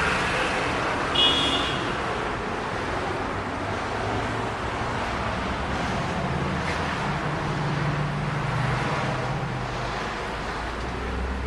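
Street traffic noise: a steady rush with a low hum, broken about a second in by a brief high-pitched squeak.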